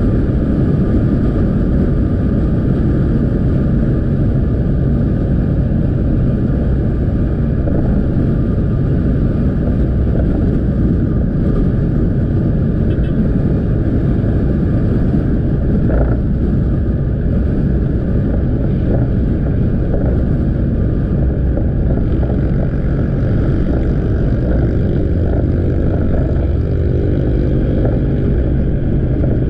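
Motorbike engine running steadily under way, with wind rumble on the microphone. There is a brief thump about halfway through.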